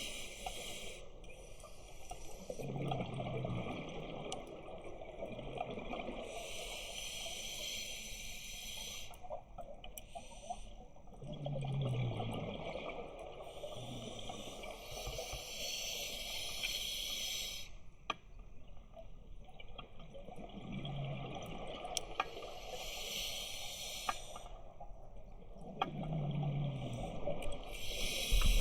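Scuba diver breathing through a regulator: hissing inhalations alternate with bursts of exhaled bubbles, a slow cycle repeating roughly every nine seconds.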